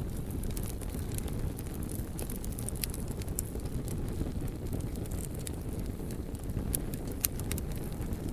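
Wood fire burning: a steady low rush of flames with scattered sharp crackles and pops, a few louder pops in the second half.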